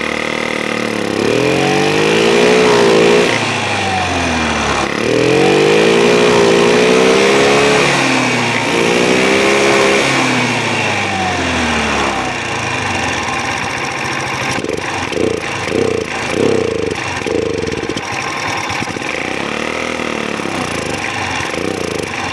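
Scooter engine running with its carburetor cover off, revved up and let back down three times, then idling with a few short throttle blips.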